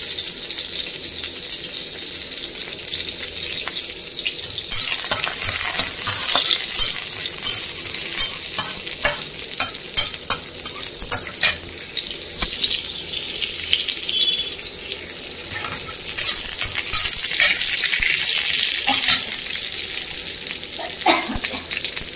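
Finely chopped garlic and green chilli sizzling in hot oil in a kadhai, stirred with a metal spatula. The sizzle grows louder about five seconds in, with a run of sharp clicks over the next several seconds.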